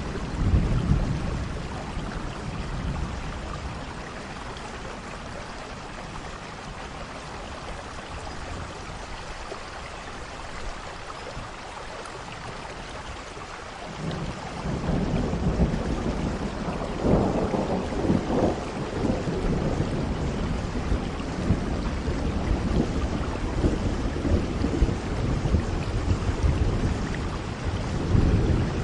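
Steady rain with thunder: a short rumble at the start, then a long rolling thunder from about halfway through, strongest a few seconds after it begins, with another crack of thunder near the end.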